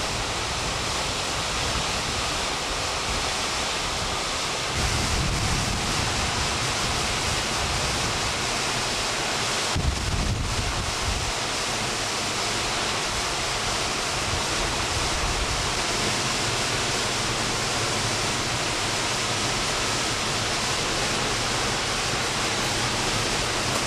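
Waterfall's steady rushing roar of falling water, with wind buffeting the microphone in low rumbles about five seconds in and again about ten seconds in.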